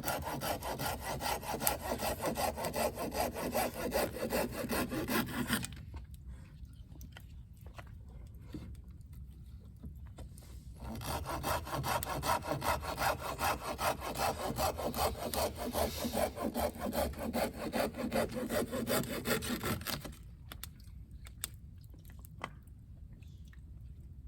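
Hand saw cutting through wood, most likely firewood for the campfire, in two bouts of rapid, even back-and-forth strokes with a pause of about five seconds between them.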